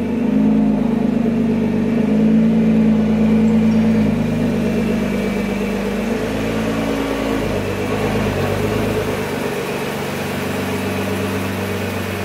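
Nissan GT-R's twin-turbo V6 running at low revs as the car creeps forward, a steady engine note with small shifts in pitch.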